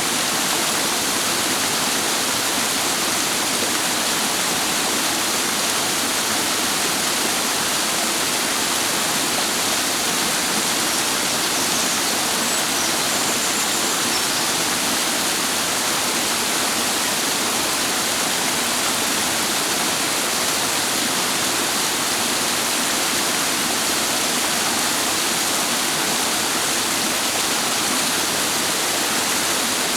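Clear mountain stream water rushing and splashing steadily, an even, unchanging water noise.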